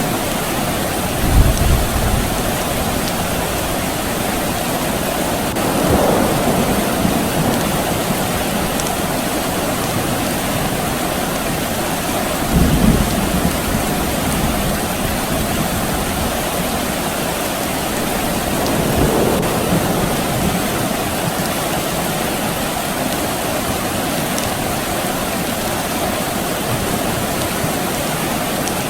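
Steady rain falling, with distant thunder rumbling low four times: about a second and a half in, near 6 s, near 13 s and near 19 s.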